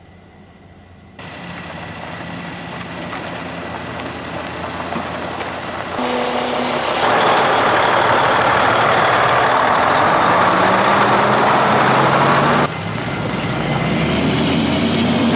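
Self-propelled crop sprayer's engine running with a steady hiss. The sound changes abruptly several times, about a second in, at six and seven seconds, and near thirteen seconds.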